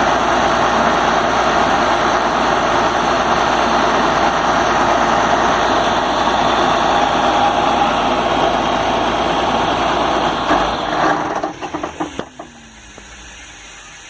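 Atlas Copco XA420 diesel portable air compressor running steadily, then shutting down about eleven seconds in: the sound stutters and winds down with a falling tone, leaving a steady hiss.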